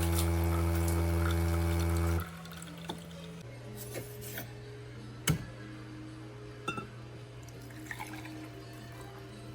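ACASPRESSO AC21 espresso machine's pump buzzing steadily during a cold-brew extraction, then cutting off about two seconds in. Afterwards liquid drips and a few light clinks follow, the sharpest about five seconds in.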